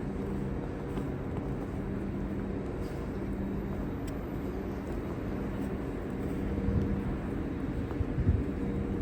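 Steady low hum of a vehicle engine over city street noise, with low rumbling surges near the end.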